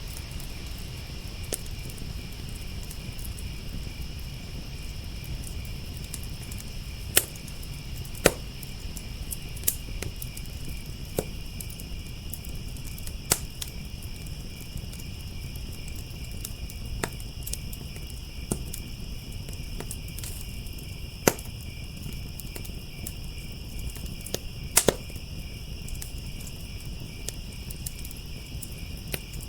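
Wood fire crackling, with scattered sharp pops at irregular moments, over a steady chorus of crickets chirping.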